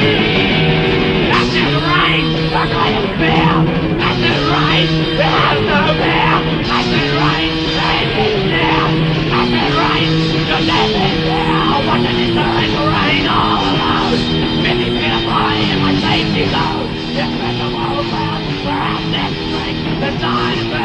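Loud, raw garage rock band playing: electric guitar, bass guitar and drums.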